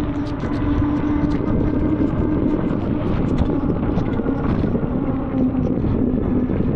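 Fat-tyre electric bike riding on a wet road: a steady rush of wind and tyre noise, with a steady hum from the rear hub motor that sinks slightly in pitch toward the end.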